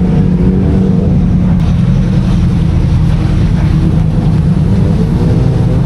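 Yamaha R6 inline-four engine running steadily under way, its pitch holding fairly level.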